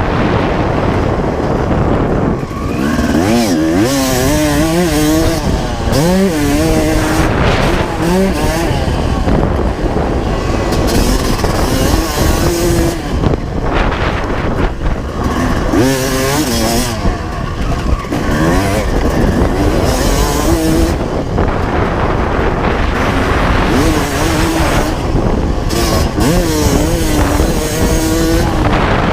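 1995 Honda CR250R's two-stroke single-cylinder engine being ridden hard, its pitch rising and falling over and over as the throttle is opened and shut through the gears.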